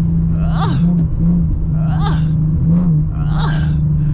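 Infiniti G37x's V6 engine running at a steady drone while driving, with small rises and falls in pitch. Short voice-like sounds recur about every second and a half over it.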